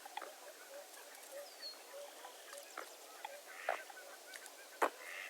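A flock of waterfowl calling: many overlapping distant honks and calls, with a few louder sharp honks, the loudest near the end, and a brief whistled bird note near the middle.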